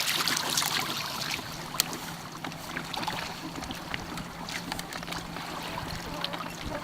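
Water and wind noise around a Hobie pedal kayak, with scattered small clicks and rattles of rope and rigging as the sail is let out from its furler, over a faint steady low hum.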